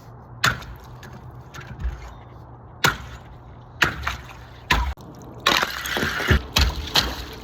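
Ice on a frozen-over pool being broken: a few sharp cracks spaced a second or so apart, then a busier run of cracking and crunching from about five and a half seconds in.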